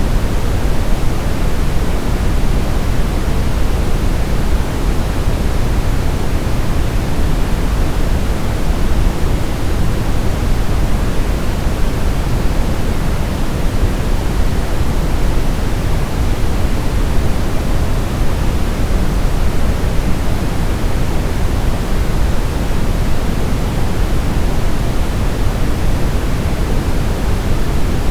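Steady generated noise, heaviest in the bass and thinning toward the treble like pink noise, with no rhythm and no changes: a sleep-aid noise track.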